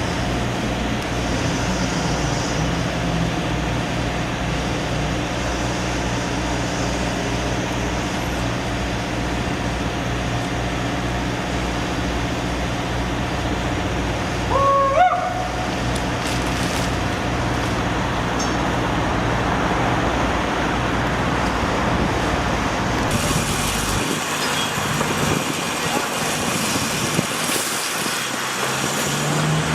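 A large engine running steadily amid street traffic noise. About halfway through comes a short, rising pitched call, the loudest moment. The low engine drone drops away near the end.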